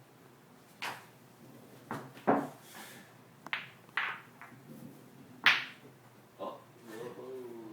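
Pool balls knocking sharply against each other and the table, about seven irregular clacks as they are batted around, the loudest about two and five and a half seconds in.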